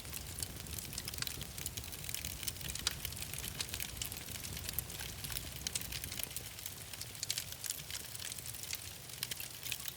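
Wood fire crackling in a fireplace, with frequent irregular sharp pops over a low steady rumble.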